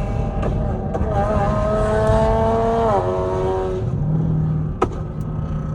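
A car engine revving hard at a burnout: its pitch holds high, then drops about three seconds in as it comes off the throttle, over a steady low engine rumble. A sharp click sounds near the end.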